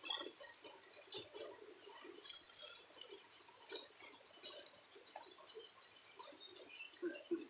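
Small birds chirping, with a steady high trill joining about three seconds in, over soft scattered clinks of small metal parts being handled.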